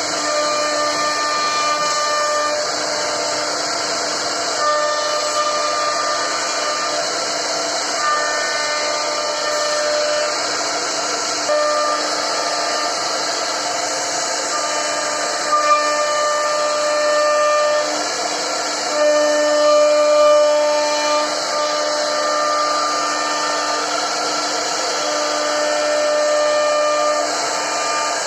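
CNC wood router at work: the axis drive motors whine in held tones that jump to new pitches every second or two as the cutter changes direction and speed, over a steady hum and the high hiss of the spindle cutting wood.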